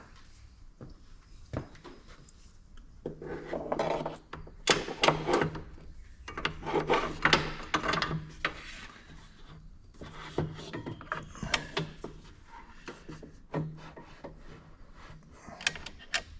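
Irregular rubbing and scraping with scattered light clicks and knocks: a shifter cable being pushed and worked into place.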